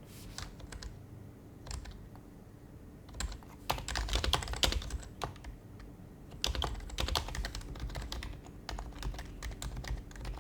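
Typing on an HHKB Professional HYBRID Type-S keyboard, its silenced Topre switches giving soft, muted keystrokes. A few scattered key presses at first, then quick runs of typing broken by short pauses.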